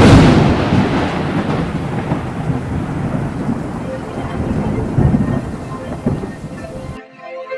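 Thunderstorm: a sudden loud thunderclap, then rolling rumble over steady rain, swelling again about five seconds in and cutting off abruptly near the end.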